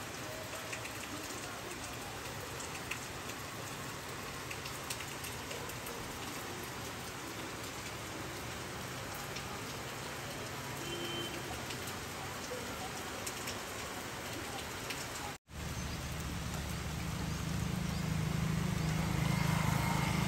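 Steady rain falling on wet concrete, with scattered ticks of individual drops. About three-quarters of the way through, the sound drops out for an instant and comes back as louder rain with a low rumble under it.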